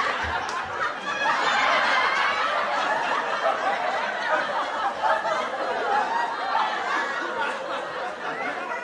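Canned audience laughter: a crowd of many people laughing and chuckling together after a punchline.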